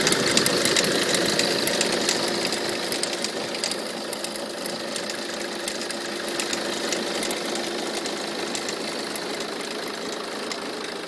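Peugeot 307 2.0 HDi four-cylinder diesel engine idling with a rapid clattering of fine clicks. The owner thinks the noise comes from the alternator, its pulley or the belt tensioner idler. It grows somewhat fainter over the first few seconds, then holds steady.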